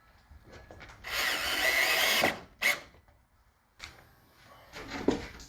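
Power drill driving a screw into wood: one run of about a second, then a short second squeeze of the trigger.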